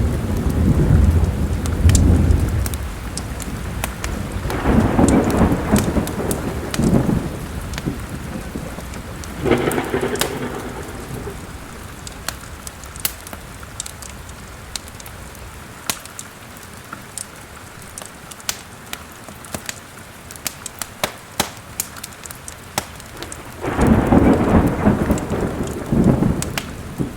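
Thunderstorm: steady rain with four rolling rumbles of thunder, the last near the end, and a quieter stretch of rain in between. Sharp crackles and pops from a wood fire in a fireplace are scattered throughout.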